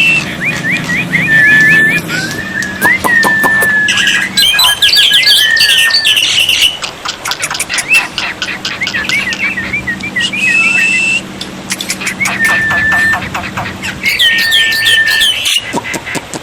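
Black-winged myna (jalak putih) singing: a busy mix of sharp clicking chatter, runs of quick sweeping notes, and clear held whistles.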